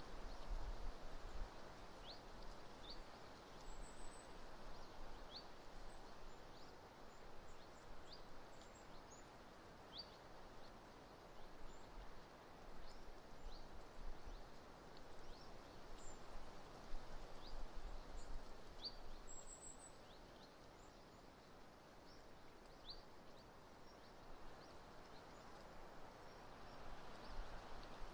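Strong, gusty wind blowing past the nest microphone: a steady rushing hiss with low rumbles in the gusts. Faint, short high chirps of small birds come through it every second or so.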